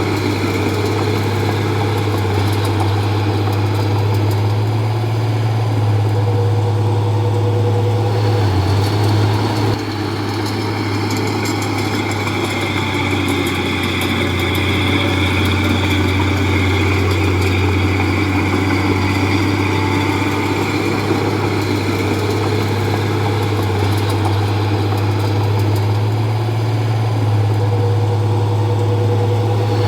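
Komatsu D31P bulldozer's diesel engine running steadily with a constant low hum, briefly easing about nine seconds in.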